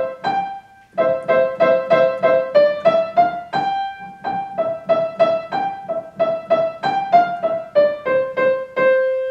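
Piano playing a simple beginner melody in short, detached staccato notes, with many repeated notes at about two to four a second, ending on one held note.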